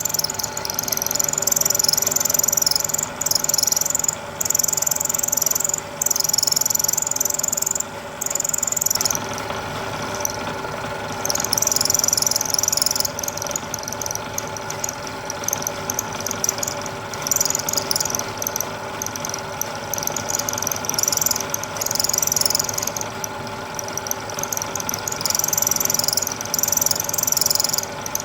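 Milling machine running with a four-flute end mill taking slow passes in steel, fed by hand on a rotary table with cutting fluid: a steady machine hum under high-pitched cutting noise that comes and goes every second or two.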